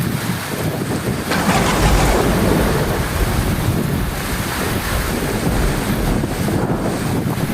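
Heavy rain pouring steadily, with a deep rumble of thunder underneath. The rain swells louder about a second and a half in.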